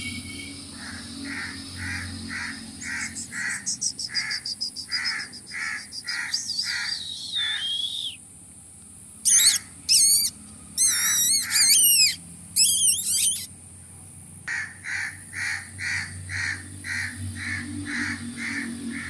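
Birds calling: a short call repeated about twice a second, broken in the middle by a few seconds of loud, high, warbling chirps.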